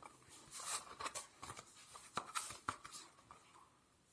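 Tarot cards being handled on a table: soft scattered taps, slides and rustles of the cards, about half a dozen sharper clicks in the first three seconds, fading near the end.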